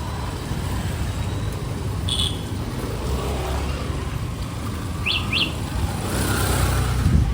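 Street ambience: a steady rumble of vehicle engines and traffic, with short high bird chirps about 2 seconds in and twice in quick succession near 5 seconds.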